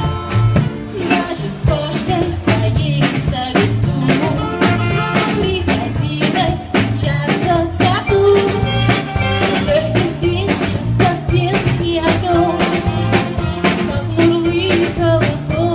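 A jazz band playing with a steady drum-kit beat, bass and a wavering lead melody.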